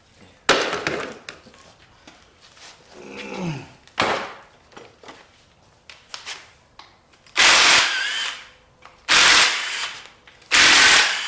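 Impact wrench run in five short, loud bursts, the last three about a second and a half apart, spinning bolts off an engine during teardown.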